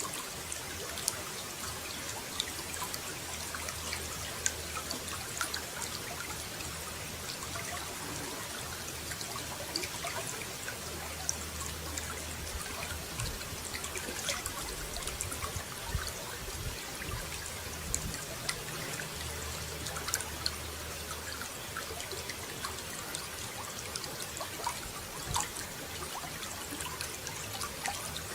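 Running water trickling and splashing steadily, with many small drips and splashes ticking through it.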